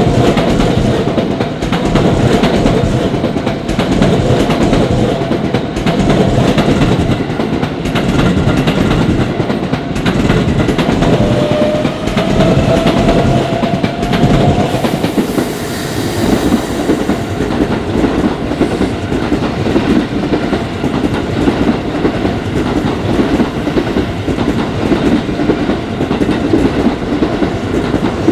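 Commuter train passing over a level crossing, its wheels clattering over the rail joints in a rhythm that pulses about every two seconds. A faint whine rises in pitch near the middle.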